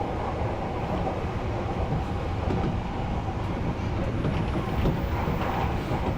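Odakyu Line electric commuter train running at a steady speed: wheel-on-rail rumble with a few faint clicks from the track.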